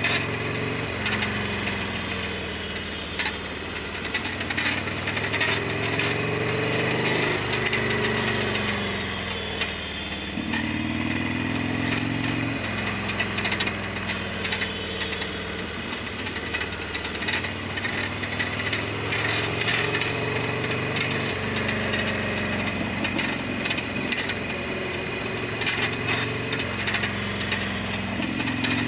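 Harley-Davidson Sportster XL1200R's 1200 cc V-twin engine running while riding, its pitch rising and falling with engine speed several times. There are many short clicks and rattles over the engine.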